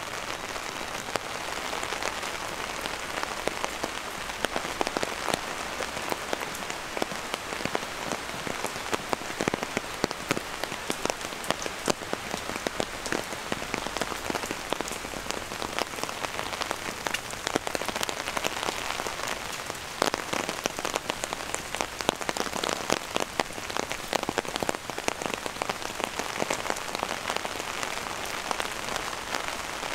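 Steady rain falling, a continuous hiss dotted with many sharp, close drop hits throughout.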